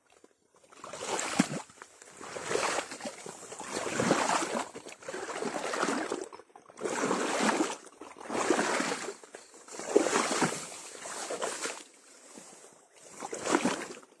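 Wading steps sloshing through shallow water: a swell of splashing about every second and a half.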